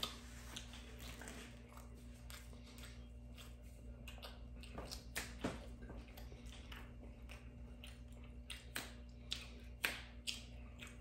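Close-miked chewing and smacking mouth sounds of eating noodles and a sandwich: a run of short wet clicks that grows busier in the second half, over a steady low hum.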